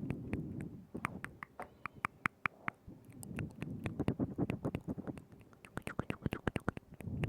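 Wet mouth sounds right at a binaural microphone: quick runs of sharp tongue and lip clicks over soft, muffled low rustling noise.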